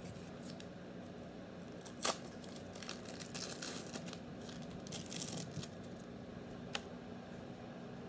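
Crinkling and rustling of plastic packaging being handled, with a sharp click about two seconds in and a smaller click near the end, over a steady low hum.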